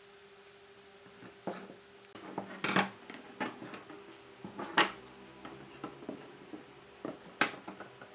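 Irregular light knocks and clatter of wood pieces and hand tools being handled on a workbench, about a dozen in all, the loudest near the middle. A faint steady hum runs underneath.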